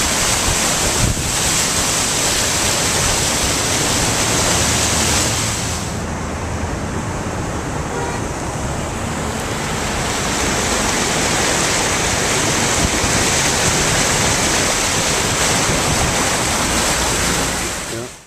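Steady rushing noise of a heavy rainstorm, with rain and runoff water pouring down the street. The high hiss softens for a few seconds midway, and the sound cuts off abruptly at the end.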